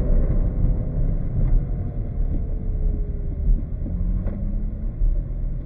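Porsche 911 GT3's flat-six engine heard from inside the cabin, its pitch sliding slowly down as the car coasts and slows, then settling to idle about four seconds in, over a steady low rumble.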